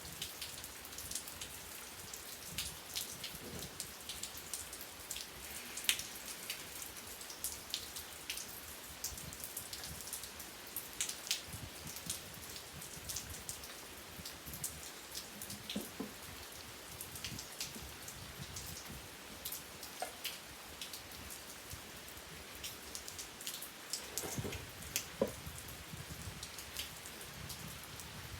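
Steady rain with many separate drops ticking and pattering on a hard surface, a few heavier low drips among them.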